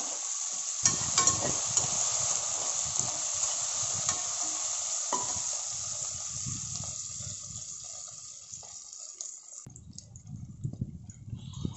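Onions, tomatoes and dried red chillies sizzling in oil in an aluminium pressure cooker, stirred with a perforated steel ladle that clinks and scrapes against the pan a few times in the first five seconds. The sizzle dies down over the second half.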